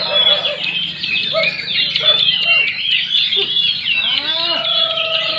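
Many caged songbirds singing at once in a songbird contest: a dense overlap of high chirps, whistles and trills. About four seconds in, a lower call with a held tone and sweeping notes joins in.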